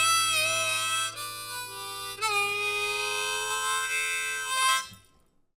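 Harmonica playing the song's closing phrase of held, bent notes over a sustained low note from the band. The music ends about five seconds in.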